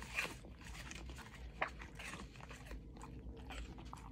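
Black Labrador crunching and chewing a big slice of raw Braeburn apple dipped in natural yoghurt, with a few sharp crunches, the loudest two about a second and a half apart.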